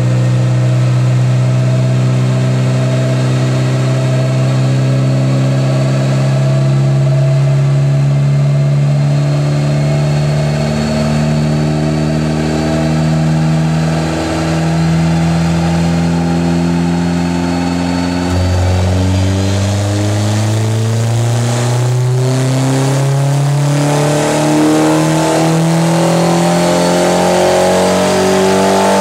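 Polaris Slingshot's Chevrolet 2.4-litre four-cylinder engine pulling under load on a chassis dyno, its revs climbing slowly with a faint high whine rising alongside. The pitch drops back about two-thirds of the way through, then climbs again, faster, toward the end.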